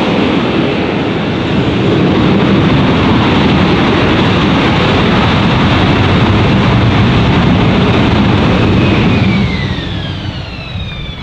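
AV-8B Harrier II's Rolls-Royce Pegasus jet engine running loud and steady. It fades in the last couple of seconds with a falling whine.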